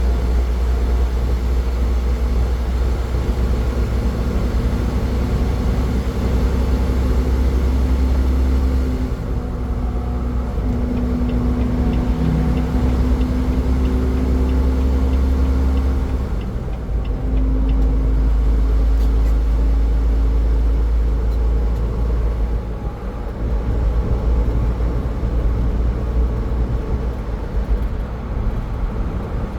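Car driving on a highway: steady low road rumble from tyres and engine. A humming tone rises over it about ten seconds in and fades out around twenty seconds.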